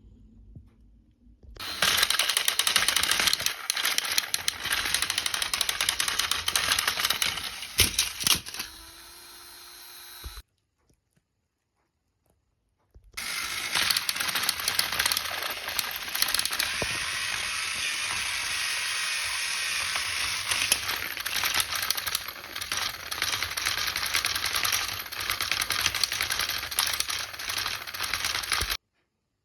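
Dense mechanical clattering and rattling with fast clicks, in two stretches. It cuts off abruptly about ten seconds in, resumes about three seconds later and cuts off again just before the end.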